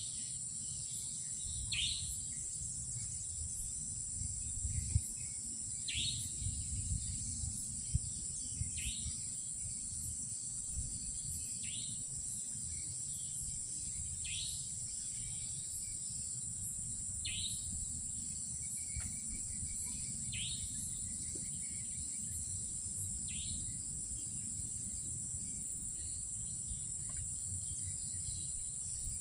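Night insects trilling steadily and high, with a short downward-sliding call repeated about every three seconds over a low rumble.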